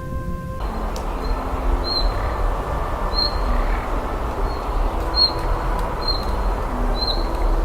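A small bird giving short, high chirps, about five, spaced roughly a second apart, over a steady low rumble and hiss.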